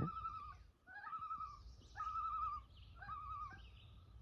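Common loon calling: four wavering phrases about a second apart, each opening with a short rising note, with faint songbirds higher up.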